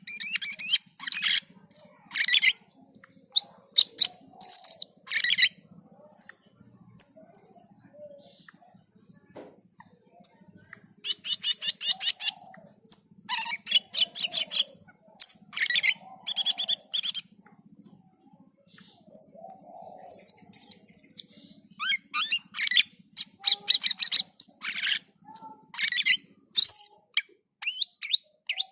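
Cucak keling songbird singing in full voice: clusters of rapid, harsh chattering notes broken by short pauses, with a faint steady low hum beneath.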